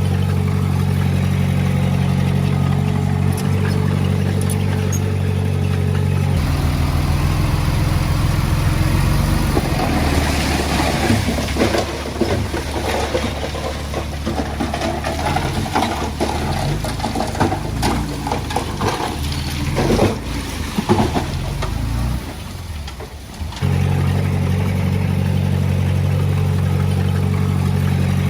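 Heavy machinery's diesel engine running steadily, with a long stretch of clattering and rattling over it in the middle; near the end the sound switches suddenly back to the plain steady engine.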